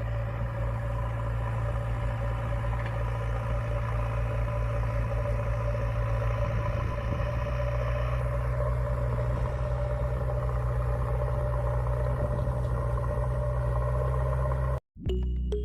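A motor running steadily with a low, even drone, cutting off suddenly shortly before the end.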